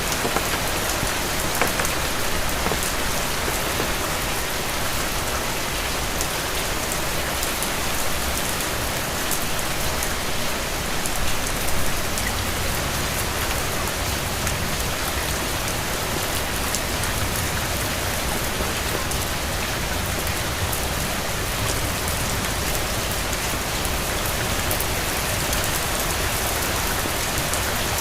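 Steady rain falling, a constant hiss dotted with many fine drop ticks, with a low rumble underneath in the second half.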